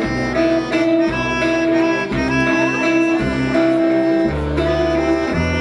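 Live band music with no vocals: held chords that change every half second or so over plucked strings and a moving bass line.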